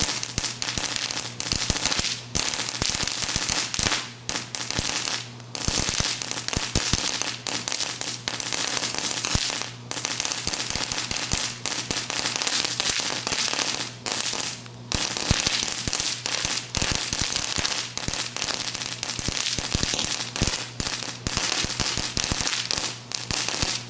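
A string of firecrackers going off in a dense, continuous crackle of rapid pops, with a few short lulls.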